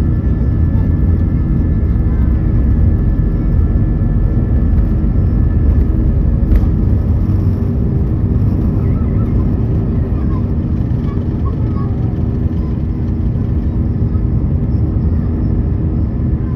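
Cabin noise of an Airbus A320 climbing just after takeoff: a steady deep roar of engines and airflow. A high whine fades out in the first few seconds, and there is a single sharp click about six and a half seconds in.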